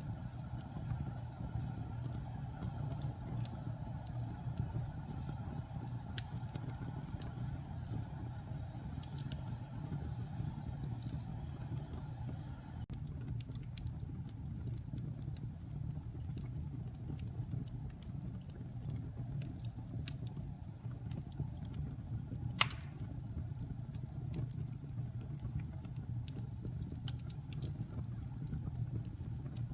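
Wood fire burning in a fireplace: a steady low rumble of the flames with scattered small crackles and pops, and one sharp, much louder pop about three-quarters of the way through.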